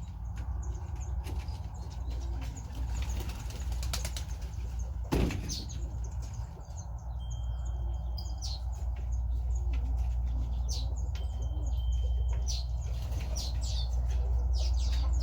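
Birds flapping their wings and chirping, many short falling chirps with sharp clicks among them, over a steady low rumble.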